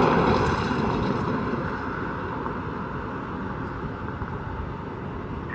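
A passing vehicle's noise, a steady rush that fades gradually as it moves away.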